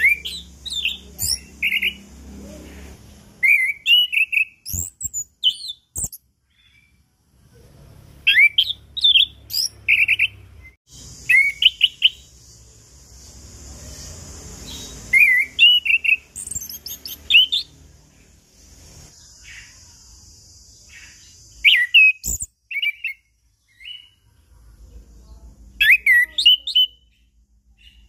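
Orange-headed thrush singing in bursts: short phrases of clear, sharp whistled notes and quick slurred glides, with pauses between them. A steady high hiss runs behind some of the phrases.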